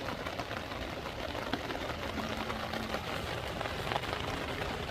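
Steady heavy rain falling, with a dense patter of individual drops.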